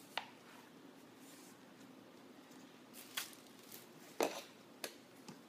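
Handling noise from vacuum cleaner accessories: a few soft clicks, knocks and rustles as plastic parts are picked up and moved, the clearest a little after 3 seconds, at about 4 seconds and near the end.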